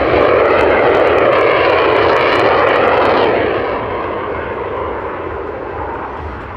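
Yak-110 with its jet engine pushed up from idle: a loud jet roar over the drone of its two radial-engine propellers. It is loudest for the first three seconds, then eases off a little.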